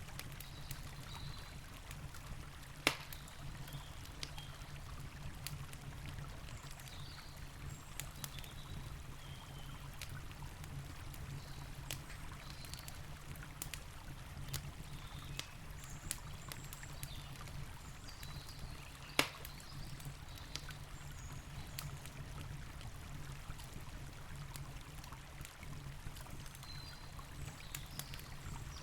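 Campfire crackling with scattered small sharp snaps and two louder pops, about three seconds in and again near nineteen seconds, over the steady rush of a river.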